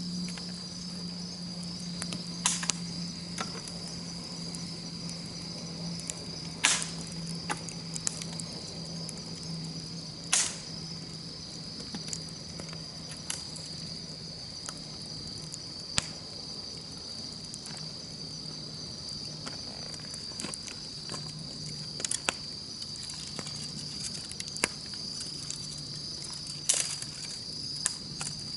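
Wood campfire crackling, with sharp pops every few seconds, over a continuous high-pitched chirring of insects and a low steady hum.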